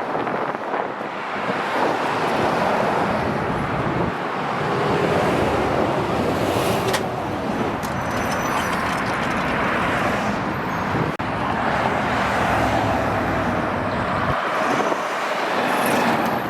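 Freeway traffic passing close by: a steady rush of tyres and engines that swells and eases as vehicles go by.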